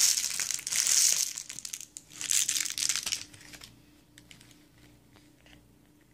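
A cat playing with a crinkle-ball cat toy, the ball's crinkly wrapping rustling loudly in two bouts over the first three and a half seconds, then a few faint clicks.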